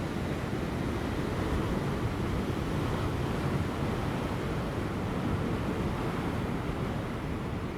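Large ocean waves breaking on rocks just before high tide: a steady, unbroken wash of surf.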